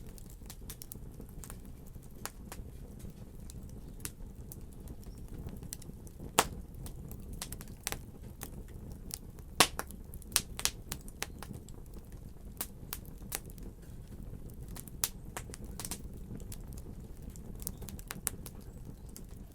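Fire crackling: irregular sharp pops and snaps over a steady low rumble, with a cluster of louder pops around the middle.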